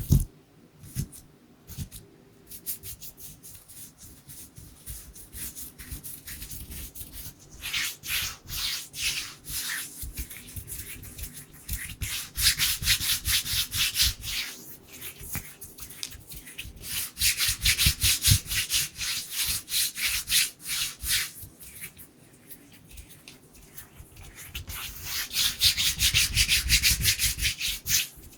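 Dry bare hands rubbing together quickly close to the microphone, in fast swishing strokes that come in waves, loudest around the middle and near the end. A few separate soft clicks come first.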